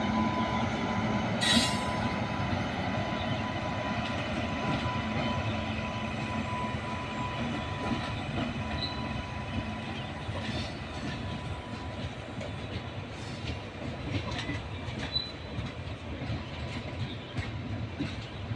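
Farakka Express passenger train rolling on the rails, a steady rumble of wheels and coaches with a thin wheel squeal that fades out about halfway through. A sharp click comes about a second and a half in, and the whole sound slowly grows quieter.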